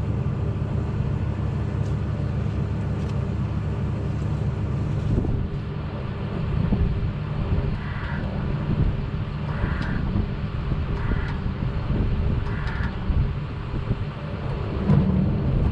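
Case 680B backhoe's engine running steadily, its hydraulics working to raise the boom. Four short, higher-pitched sounds come in the second half.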